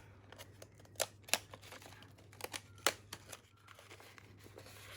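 Paper craft supplies being handled: soft crinkling and rustling with a handful of short, sharp clicks and taps.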